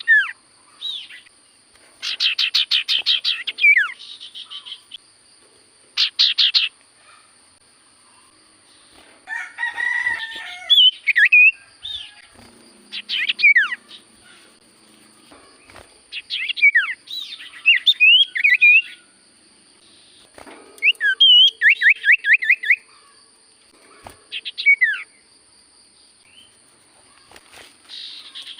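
Common iora (cipoh) singing its 'sirtu' song: about seven short phrases of rapid trilled notes and quick whistled slurs, a few seconds apart.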